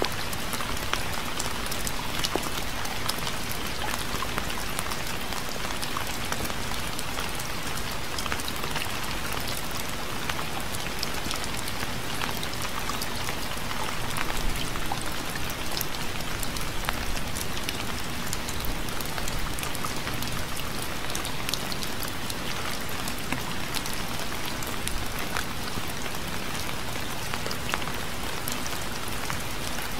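Steady rain falling, with many individual drops pattering on a surface; a slight swell in the rain about halfway through.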